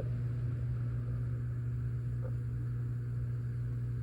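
A steady low hum with faint room noise and no speech.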